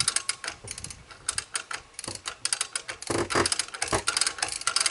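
Manual hoist being worked to lift a pickup cab off its chassis: rapid, uneven ratcheting clicks in runs, louder for a while past the middle.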